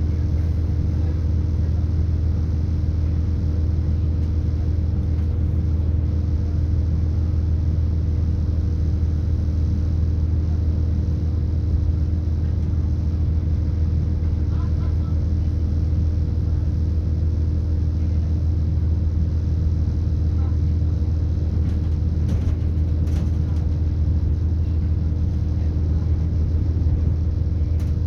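Interior noise of a British Rail Class 170 Turbostar diesel multiple unit: a steady low drone from its underfloor MTU turbo-diesel engine and running gear, with a couple of steady humming tones above it.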